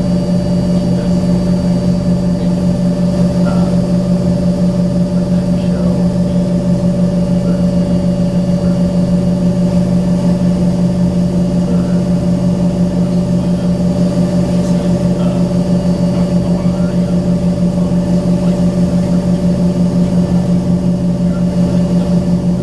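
Steady drone heard inside the passenger cabin of an Embraer ERJ-135 regional jet: a constant low hum with a few unchanging higher tones over a rushing noise.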